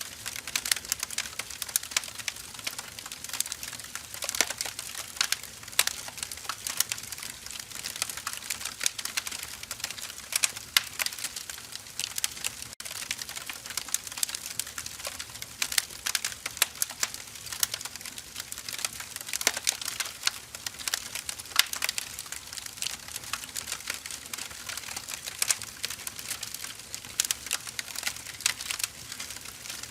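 Firewood burning, crackling steadily with many irregular sharp snaps over a soft hiss.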